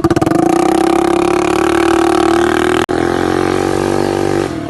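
Scooter engine revved up and held through an aftermarket exhaust with its dB killer removed, giving a loud, steady exhaust note. There is a brief break about three seconds in.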